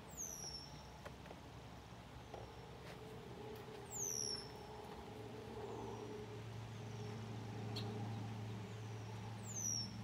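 Bird calls: short, thin, high peeps that slide steeply down in pitch, loud just after the start, about four seconds in and near the end, with fainter ones between. A steady low hum runs underneath.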